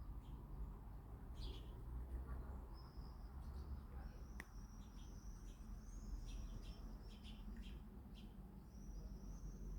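Birds calling: a run of thin, high whistled notes, each held about half a second to a second, mixed with short chirps, over a faint low rumble. One sharp click about four seconds in.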